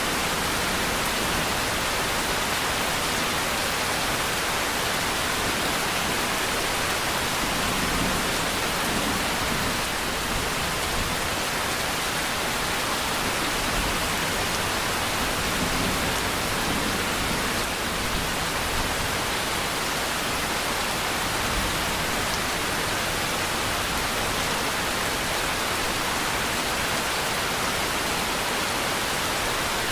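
Steady heavy rain: a dense, even hiss of falling rain with no distinct drops or thunder.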